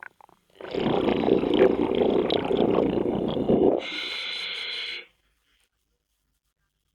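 Scuba diver breathing through a regulator underwater: a long rush of exhaled bubbles for about three seconds, followed by the shorter, higher hiss of an inhale through the regulator.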